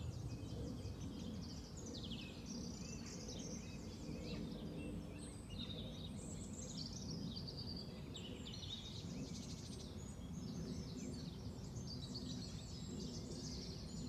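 Early-morning chorus of several songbirds singing at once, their trills and chirps overlapping throughout, over a steady low rumble.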